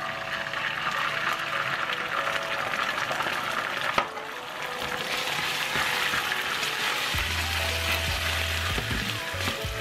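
Garlic and ginger sizzling in hot oil in a nonstick frying pan as oyster sauce goes in, with one sharp knock about four seconds in and a wooden spoon stirring near the end.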